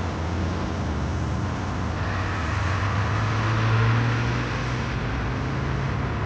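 Car engine and tyre noise while driving, a steady low drone whose pitch rises a little and grows louder around the middle, then settles back.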